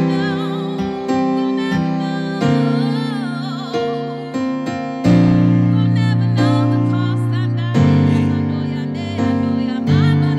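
Worship music: sustained electric keyboard chords changing every second or two, with a wavering sung or lead melody line above them.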